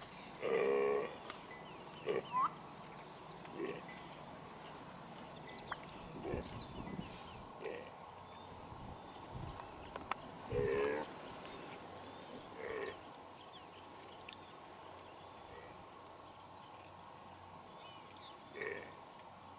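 Short, pitched animal calls, each about half a second long, repeated every one to two seconds and growing fainter. A steady high-pitched insect buzz sounds underneath and fades out partway through.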